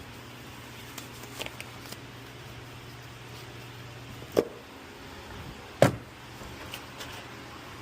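Two loud, sharp knocks about a second and a half apart, after a low steady hum that stops just before the first, with a few light clicks earlier.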